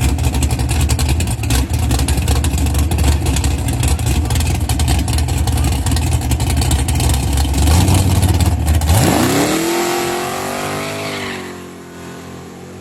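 Loud car engine running hard with rapid firing pulses for about nine seconds. It cuts off suddenly and is followed by a rising tone that levels off and fades.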